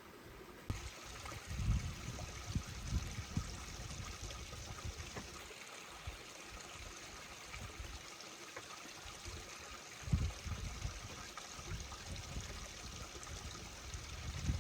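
Steady rushing noise like running water, starting abruptly about a second in, with low rumbling thumps at times.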